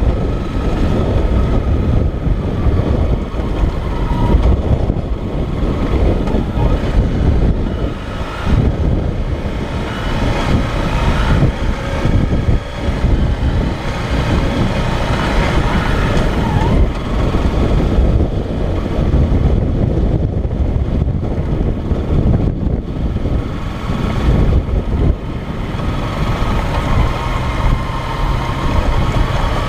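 Motorcycle running along the road, with wind buffeting the microphone.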